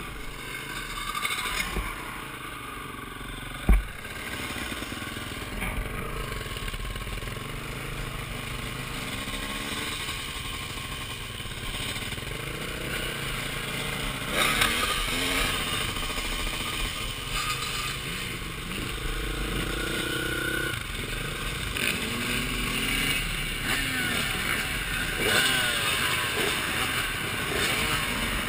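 Motocross dirt bike engine revving up and down as it is ridden, heard from a helmet camera, with rattles and one sharp knock about four seconds in.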